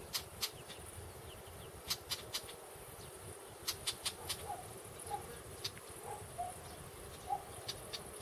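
Short, sharp, clicking bird call notes at irregular intervals, sometimes several a second, over a steady high hiss of insects. From about halfway, a few short soft low notes join in.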